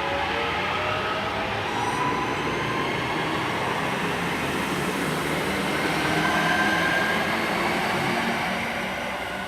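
Class 323 electric multiple unit pulling away from the platform, its traction motors whining in several tones that rise in pitch as it gathers speed, over the rumble of the train. The sound swells a little past the middle and starts to fade near the end.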